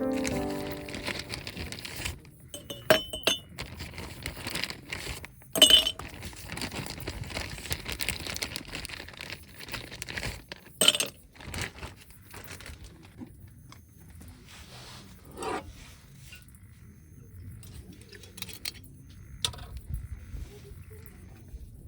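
Clinks and knocks of hard objects being handled. The sharpest come about three, six and eleven seconds in, a few with a short ring, with quieter handling noise between.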